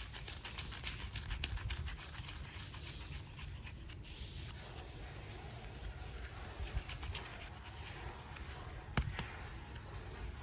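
Hands unboxing and handling super clay and its plastic packaging: a run of small crackles and clicks, busiest in the first two seconds, with a sharper click about nine seconds in.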